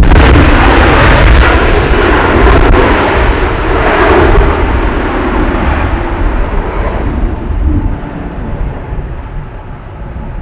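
Jet engine noise from an Airbus A320neo airliner, loud at first, then fading as the aircraft moves away; the high hiss drops out about four and a half seconds in.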